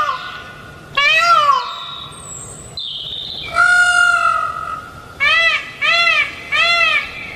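An animal calling over and over in clear, pitched, rising-and-falling calls. There is one call about a second in and a longer drawn-out call around the middle. Near the end come four short calls in quick succession, about two a second.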